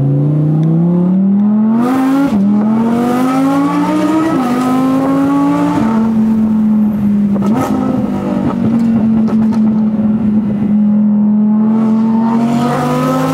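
Audi R8's V10 engine heard from inside the cabin, accelerating hard with two quick upshifts about two and four and a half seconds in. From about six seconds it settles to a steady cruise, then climbs briefly once more near the end.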